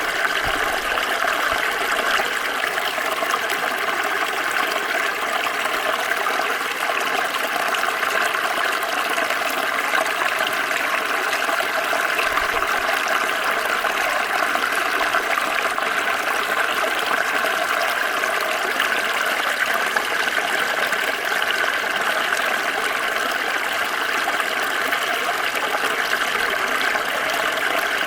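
Small stream flowing: a steady babble of water running over stones, even and unbroken.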